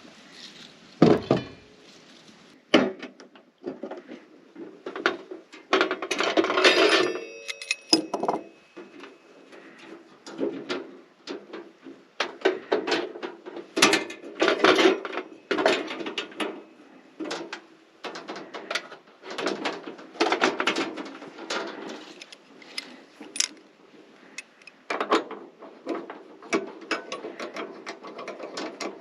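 Camp gear being handled and set out: irregular clatter, clicks and knocks of things being picked up and put down, with a denser rustling stretch about six to seven seconds in.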